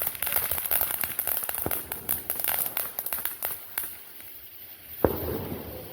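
Consumer fireworks crackling: a dense run of rapid pops and crackles that thins out after about four seconds, then a single sharp bang about five seconds in.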